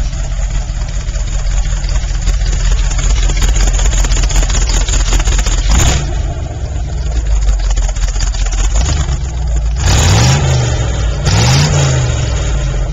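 Oldsmobile Toronado V8 in a trike running loud, blipped twice in quick succession near the end, the pitch rising and falling each time.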